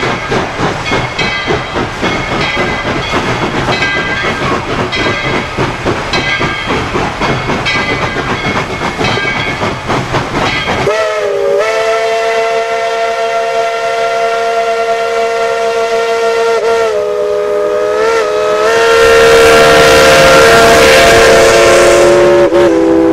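Narrow-gauge steam locomotive working hard, with rapid, even exhaust beats. About eleven seconds in, a chime steam whistle sounds several notes together in one long blast. It grows louder, with steam hiss, from about nineteen seconds.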